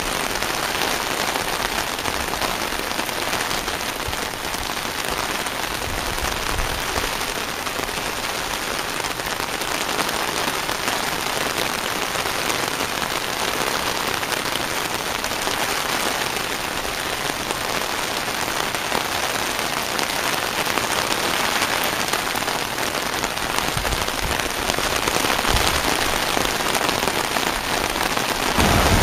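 Steady rain falling on wet grass and a puddled gravel driveway, an even hiss of drops that holds level throughout.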